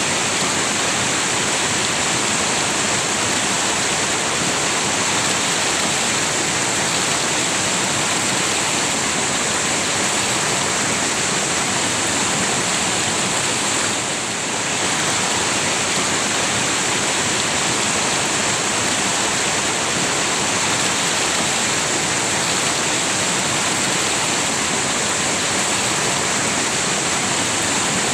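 River water rushing steadily, a dense even noise with a strong high hiss; it eases briefly about halfway through.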